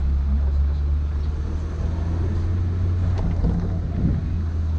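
Suzuki Samurai's four-cylinder engine running steadily while driving slowly through town, a low drone with wind and road noise in the open cabin. A couple of light knocks come about three to four seconds in.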